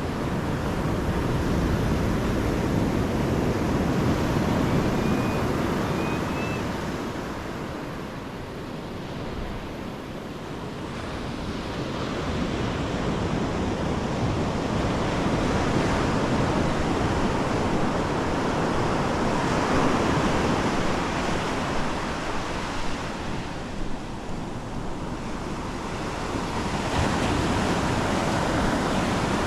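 Pacific Ocean surf breaking and washing up the beach: a steady rush of water that swells and eases in slow surges every several seconds.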